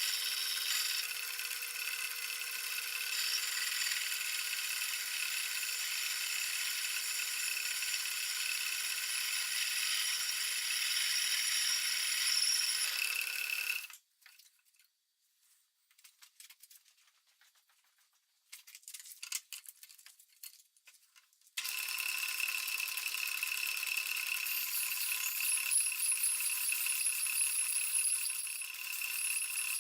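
Seneca Falls Star 10 lathe turning metal: a steady, high-pitched machining noise. About halfway through it stops abruptly, leaving several seconds of near quiet with a few small clicks, then starts again just as abruptly.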